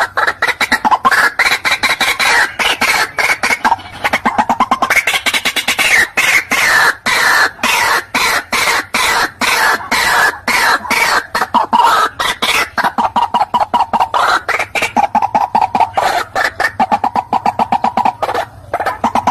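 White-breasted waterhen calling: a long, loud run of rapid repeated croaking notes, several a second, the pitch rising and dropping in stretches.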